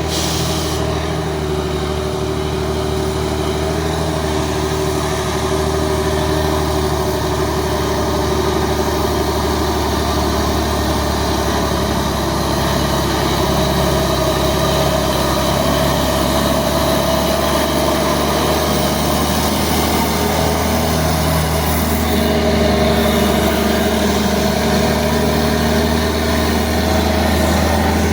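Heavy truck engine running steadily, a continuous deep drone that grows slightly louder over the stretch.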